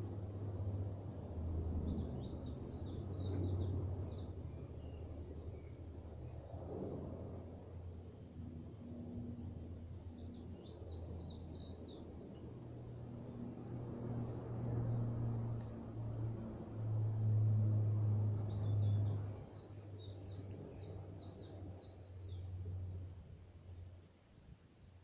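Small birds chirping in three short flurries of quick, high calls, over a steady low hum that swells and fades.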